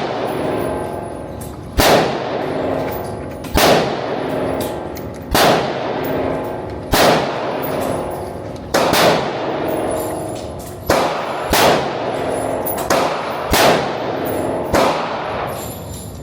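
Gunshots fired one at a time at a steady pace, about ten in all, mostly a second and a half to two seconds apart, with a quicker pair near the three-quarter mark. Each shot leaves a long metallic ringing echo.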